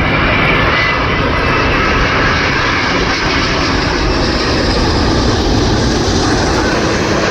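Widebody jet airliner passing low overhead on final approach to land, its engines making a loud, steady rushing noise.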